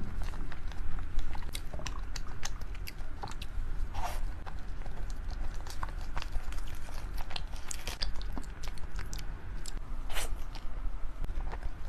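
A person biting and chewing a dessert close to the microphone: many small clicks and smacks, with two longer noisy sounds about four seconds in and near the end, over a steady low hum.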